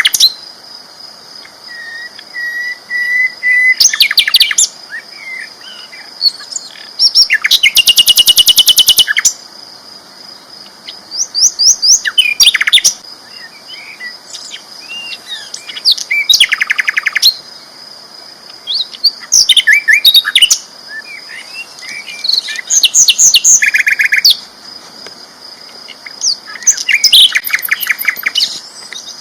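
Sikatan londo flycatcher singing loudly in bursts a second or two long every few seconds: rapid repeated chips and fast trills. A steady high tone runs underneath.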